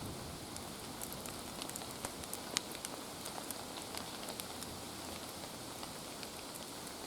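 Rain falling, with an even patter and individual drops ticking at random, including one sharper tick about two and a half seconds in. The snow is turning to rain.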